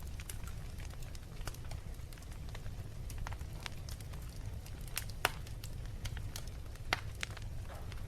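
Wood fire burning in a fireplace, with a steady low rumble and irregular sharp crackles and pops, the loudest about five and seven seconds in.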